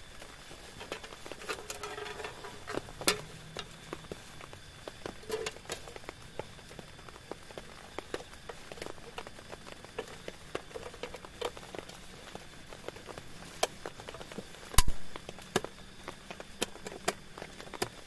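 Rain pattering on a tent, with individual drops landing as irregular sharp taps. A single loud, deep thump about fifteen seconds in.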